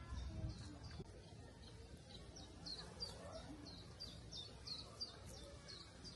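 A bird chirping over and over, about three short, high chirps a second, each dropping slightly in pitch, faint against a low background hum.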